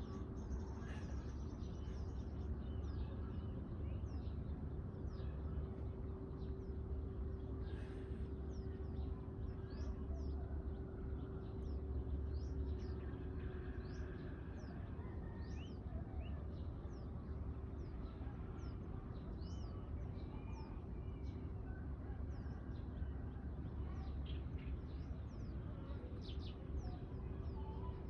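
Small birds chirping at dawn: many short, sharp calls scattered throughout, over a steady low rumble.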